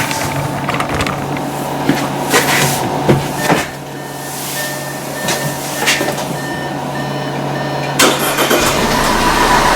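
2015 Audi Q5 engine cranking and catching about eight seconds in, then running, after a few clicks and a short repeated electronic beep. The engine is misfiring, mainly on cylinders 1 and 2, and runs rough.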